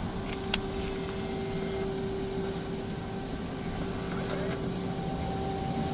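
Car engine idling, a steady low hum, with one sharp click about half a second in.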